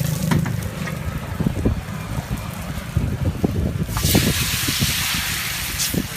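Irregular low knocks and clatter, with a loud hissing burst about four seconds in that lasts about two seconds.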